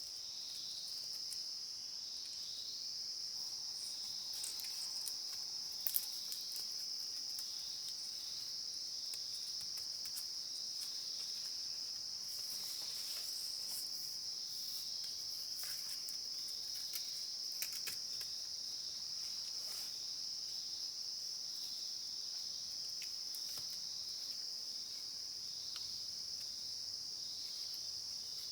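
Steady, high-pitched drone of insects, unbroken, with scattered small clicks and rustles, one sharper click about six seconds in.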